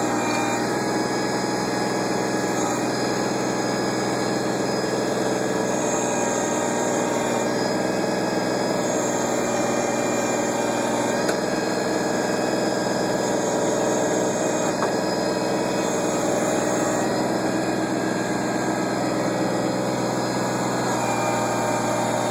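Backhoe engine running steadily throughout, with higher tones over it that come and go every few seconds.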